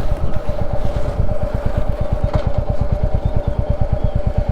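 Royal Enfield Classic 350's single-cylinder engine running at a steady low speed, its exhaust beating in an even, rapid rhythm under a steady higher hum. A brief click about two and a half seconds in.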